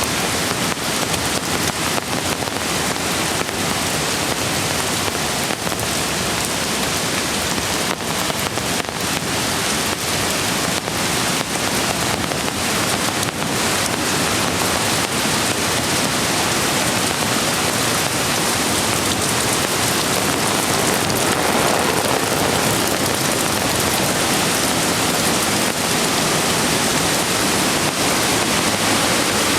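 Steady hiss of rain mixed with a rushing mountain creek. Sharp drop ticks stand out in the first half, and the water's rush grows a little toward the end.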